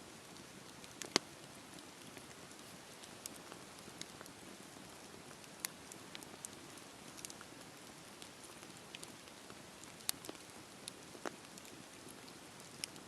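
Campfire crackling: irregular sharp pops and snaps from the burning wood, the loudest about a second in, over a soft steady rush of the flames.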